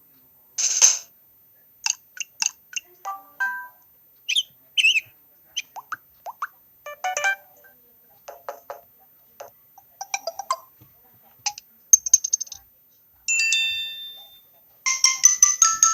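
A string of short Samsung Galaxy J-series phone notification sounds and ringtone snippets played one after another. They are brief electronic chimes, beeps and quick pitch glides with short gaps between them, and a louder, fuller ringtone begins near the end.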